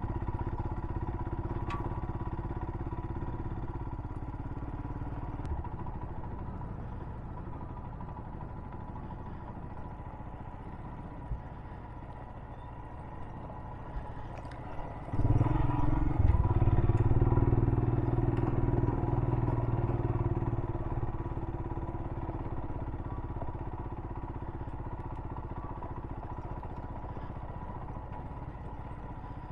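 Royal Enfield Himalayan's single-cylinder engine running at low speed on a dirt track. It gets louder about halfway through as the throttle opens, then eases off gradually, with a few faint ticks.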